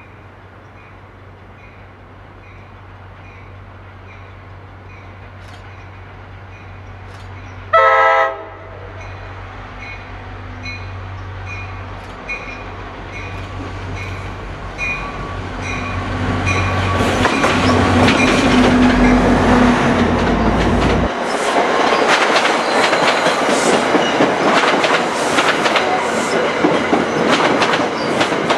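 NJ Transit diesel-hauled passenger train coming through: the locomotive's engine rumble builds, a short horn blast sounds about eight seconds in, and the bell rings steadily about twice a second. The engine noise drops off sharply once the locomotive passes, leaving the passenger cars clattering over the rail joints with some wheel squeal.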